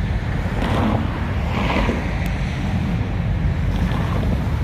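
Steady low rumble of cars' engines running on the street, mixed with wind buffeting the microphone.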